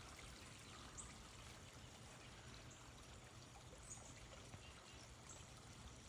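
Near silence: faint outdoor ambience, a steady low hiss with a few faint, very short high chirps every second or so.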